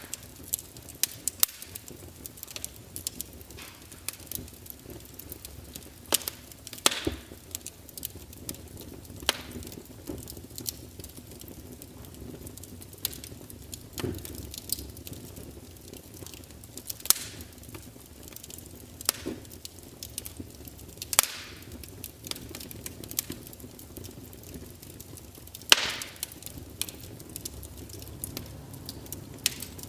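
Wood fire crackling, with irregular sharp pops and snaps over a low steady hiss; a few louder pops stand out, near seven, seventeen, twenty-one and twenty-six seconds in.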